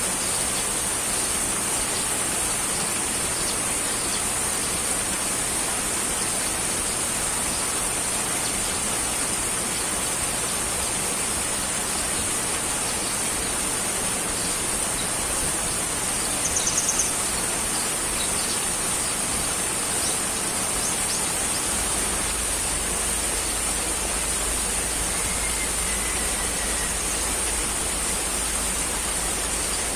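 Steady, even rushing noise with a constant high hiss, the kind of continuous ambient noise played for relaxation. A brief chirp sounds about seventeen seconds in and a faint falling whistle comes near the end.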